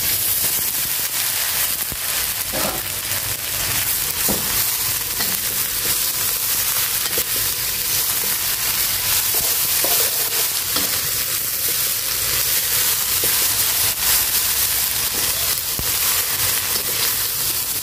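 Midin fern shoots frying in a steel wok with sautéed aromatics: a steady sizzle, with a few light knocks of a metal spatula as they are stirred.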